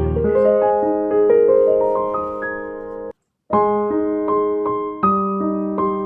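Background piano music: notes struck one after another and left ringing, with a brief break to silence a little past three seconds in before the playing resumes.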